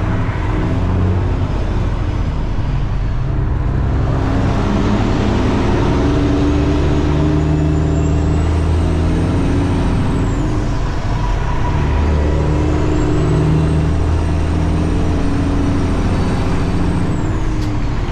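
Semi truck's diesel engine running under load, heard from inside the cab, its pitch shifting twice as it changes gear. A high whine rises and then falls away twice.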